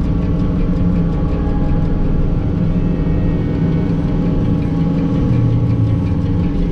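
John Deere 331G skid steer's diesel engine running steadily, heard from inside the cab.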